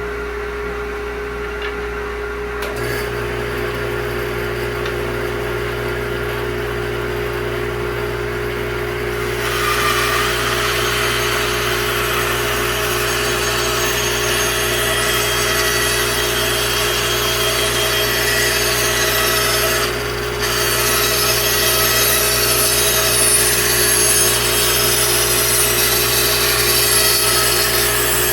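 Bandsaw running with a steady motor hum. About a third of the way in, its narrow blade starts resawing a thin strip of mahogany, adding a loud hissing cut noise over the hum. The cut breaks off briefly about two-thirds of the way in, then goes on.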